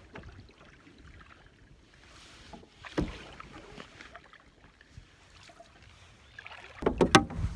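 Solo canoe being paddled, with quiet strokes in the water. There is one sharp knock about three seconds in and a cluster of louder knocks near the end.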